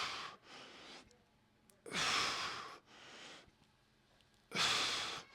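A man breathing hard and audibly through the mouth in time with repeated stretching reps: three strong exhales about two and a half seconds apart, each followed by a softer breath.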